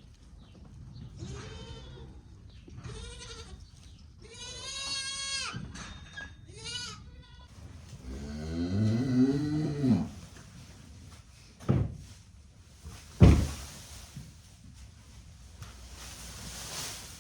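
Young goats bleating: four short bleats, then a lower, longer call. Two sharp knocks follow, the second the loudest sound.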